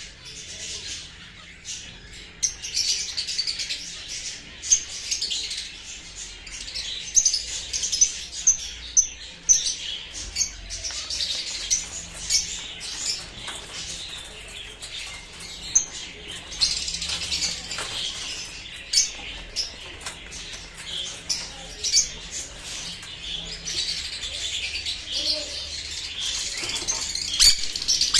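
Sun conures chirping and squawking: many short, high, sharp calls in quick succession, some of them loud.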